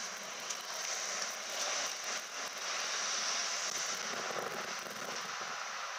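Class 175 diesel multiple unit passing close by, its diesel engines running and its wheels running on the rails. The sound swells to its loudest in the middle of the pass, with a few faint clicks early on.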